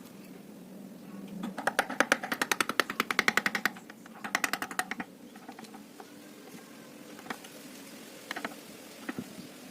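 Carving chisel driven into teak with quick light mallet taps. There are two runs of rapid taps at about nine a second, the first lasting about two seconds and the second shorter, then a few single taps near the end.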